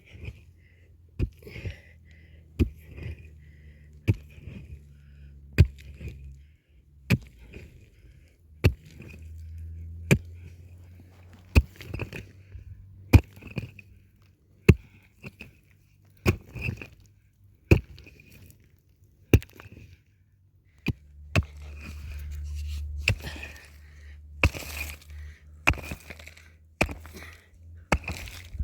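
A hand tool striking hard material over and over, roughly one blow every second and a half and quicker near the end, as in chopping or hacking. A low hum runs underneath and swells twice.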